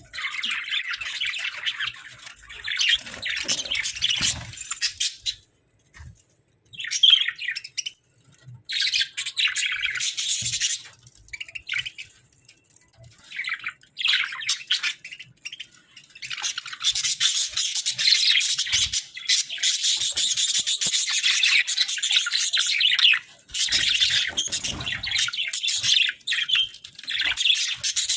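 Hagoromo budgerigars singing and chirping in dense, busy bursts of chatter. The bursts come with short pauses in the first half, then run on almost unbroken through the second half.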